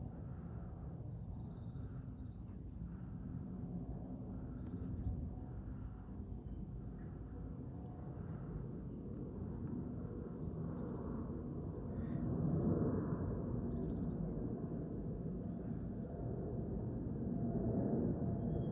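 Small birds chirping over and over above a steady low rumble, which grows louder about two-thirds of the way through and again near the end.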